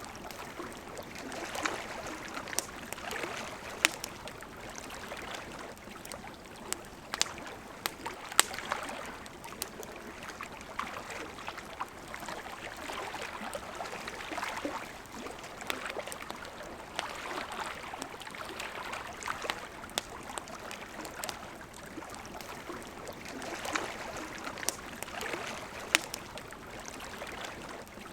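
River water flowing and gurgling steadily, its rush swelling and easing, with the sharp crackles and pops of a wood campfire scattered irregularly through it. The crackles are the loudest sounds.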